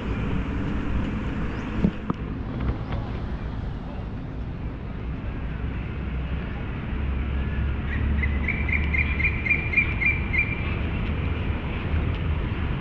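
Steady low rumble of distant city traffic. About two-thirds of the way through, a bird calls a quick run of about eight short high repeated notes lasting a couple of seconds.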